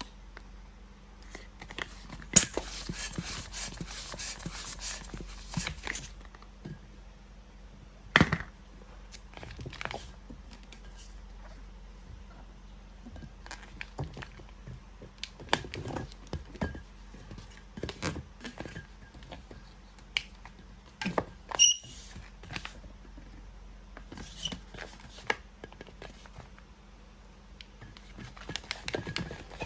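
Latex modelling balloon being handled and twisted, giving scattered squeaks, rubs and sharp clicks. A few seconds in comes a run of quick, even rhythmic strokes, and a short high squeal about two-thirds of the way through.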